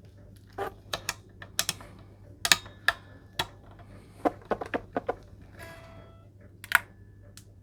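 Irregular small clicks and taps of tools and hardware being handled on an electric guitar, with a faint brief ring of a string about six seconds in.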